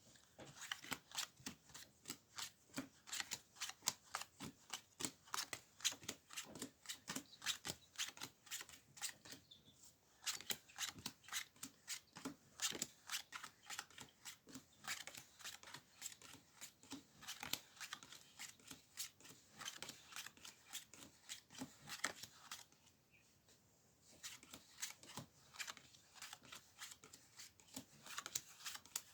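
A deck of fortune-telling cards being shuffled by hand: a fast run of soft card-on-card flicks, several a second, with two short pauses.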